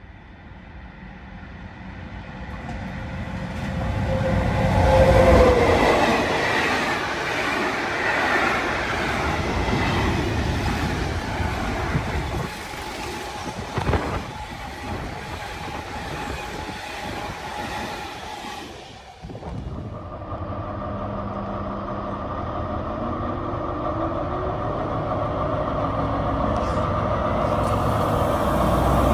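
A train passing at speed: it approaches, and a tone drops in pitch as it goes by about five seconds in, followed by the long rolling clatter of its wheels. It cuts off abruptly near 19 seconds. Then a steadier mechanical hum with several held tones grows gradually louder.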